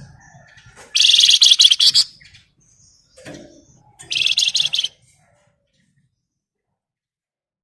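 A songbird of the kind sold as 'flamboyan' singing two loud, rapid, rattling trills of about a second each, the second starting about four seconds in, with softer chirps around them. The dense trill is the 'ngebren' song. It then falls silent.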